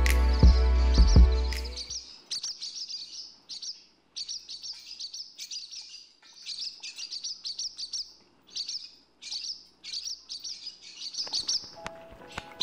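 A small bird chirping in quick clusters of high chirps, one cluster about every second with short gaps between. Bass-heavy music fades out over the first two seconds, and soft music comes back in near the end.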